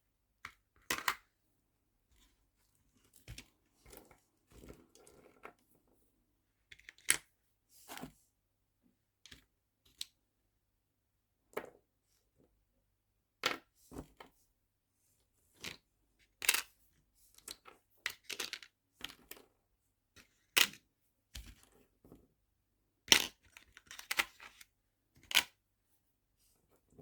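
Small nail-art charms and their plastic storage boxes being handled. It comes as irregular sharp clicks and taps with a few short rattles, separated by quiet gaps.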